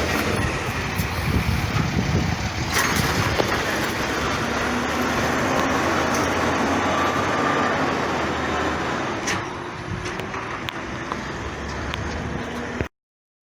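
International garbage truck with a Heil 5000 rear-loader body running, a steady heavy-vehicle engine noise with a few sharp clanks, cutting off suddenly near the end.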